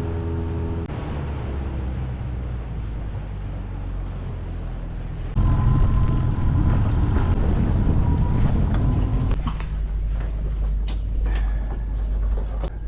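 Small boat's outboard motor running with wind and water noise, growing abruptly louder about five seconds in for a few seconds, with a few sharp clicks near the end.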